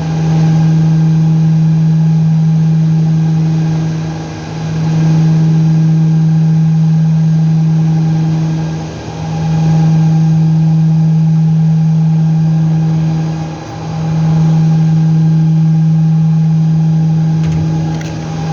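A loud, steady low machine hum with overtones, dipping briefly in level about every four and a half seconds.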